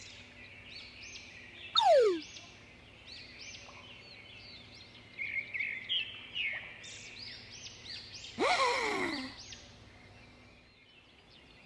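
Birds chirping, many short high chirps, with two louder falling glides, one about two seconds in and a longer one about eight and a half seconds in.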